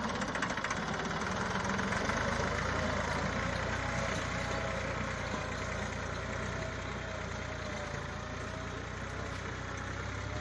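Massey Ferguson tractor's diesel engine running steadily, slowly growing a little quieter.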